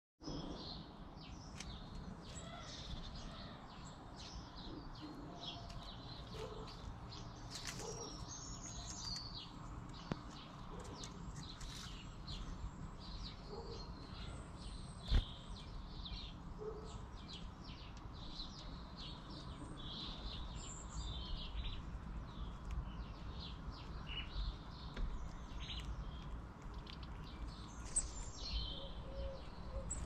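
Small garden birds chirping and calling repeatedly in short high notes over a low steady rumble, with a single sharp knock about halfway through.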